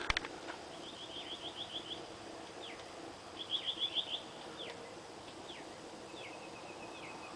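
Small songbirds singing: two quick trills of rapid high notes, about a second in and again about three and a half seconds in, with scattered short downward-sliding chirps. A sharp click comes right at the start.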